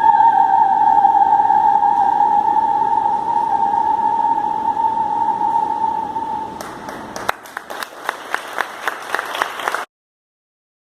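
A singer holds one long high operatic note that slowly fades away; about seven seconds in, a few people start clapping, and the sound cuts off abruptly about three seconds later.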